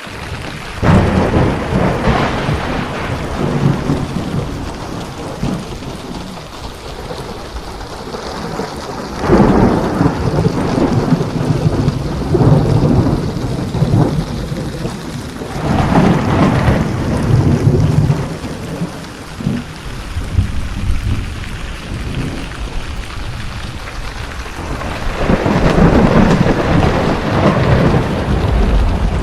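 Steady heavy rain with rolling thunder: about four long rumbles swell up, starting about a second in, around nine seconds, around sixteen seconds and near the end.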